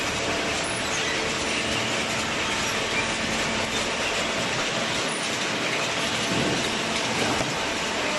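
A cardboard baler running: a steady mechanical noise with a rattle and some faint steady hum underneath.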